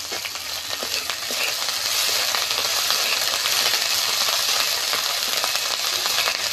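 Green chillies, tomatoes and onion-ginger paste sizzling in hot mustard oil in a kadai, with a spatula scraping and stirring through them. The sizzle grows louder about two seconds in.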